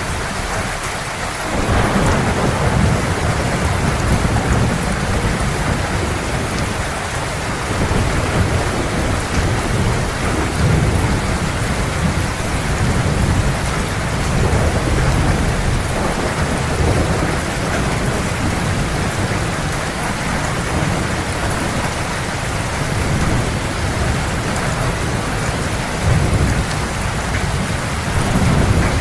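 Heavy rain falling steadily, with deep thunder rumbling underneath that swells up about a second and a half in and rolls on.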